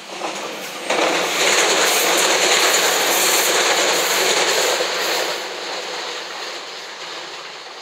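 JR West 227 series electric multiple unit passing close by, with the rush and clatter of its wheels on the rails. The noise comes up sharply about a second in, stays loud for about four seconds, then fades away.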